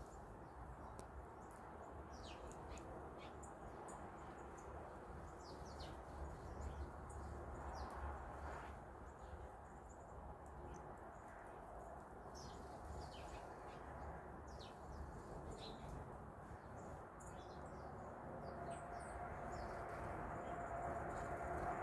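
Songbirds chirping, with many short, high calls scattered throughout over a steady low background rumble. Near the end a steady hum grows louder.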